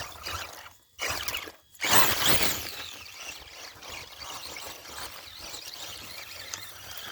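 Brushless-powered Axial Wraith RC truck driving through mud, its electric motor whining over the churn of the tyres. The sound breaks off briefly twice, then surges loudest about two seconds in before settling to a steady run.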